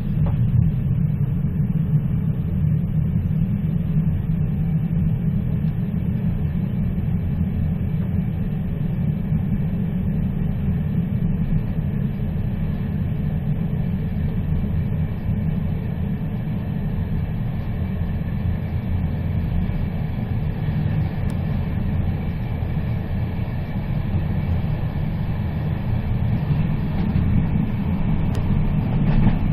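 A moving train running with a steady, deep rumble that stays even throughout.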